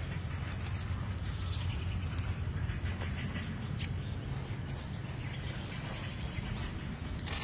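Faint bird chirps and calls over a steady low rumble, with a few sharp ticks in the middle.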